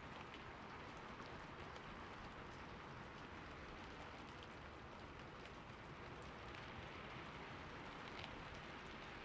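Steady rain falling on a roof: an even, faint hiss with scattered ticks of single drops.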